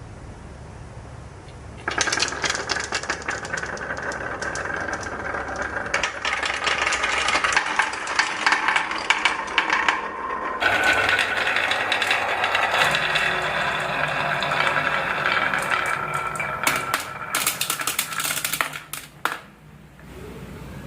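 Many marbles rattling and clattering quickly down a wooden HABA marble run, a dense stream of small clicks that starts abruptly about two seconds in and fades out near the end, with a few sharper clicks just before it stops.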